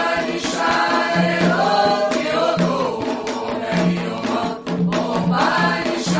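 Music: a choir of voices singing a call-and-response chant for Xangô over drum strokes.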